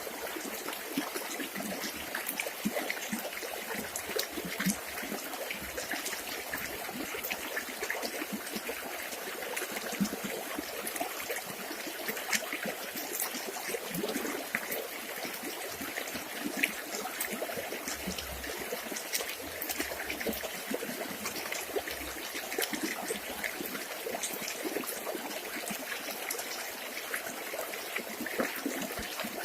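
River water flowing and trickling steadily, with a constant patter of small splashes.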